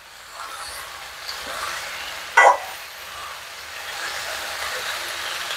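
Cabbage, potato and other vegetables sizzling as they are stir-fried in an aluminium wok, stirred with a metal ladle. One brief, louder scrape comes about two and a half seconds in.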